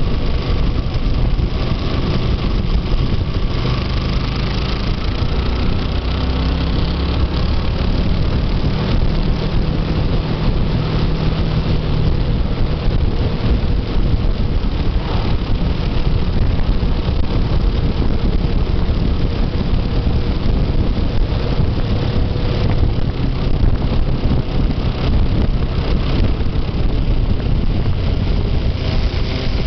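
Motorcycle engine running steadily while being ridden, under a constant low rumble and rushing noise.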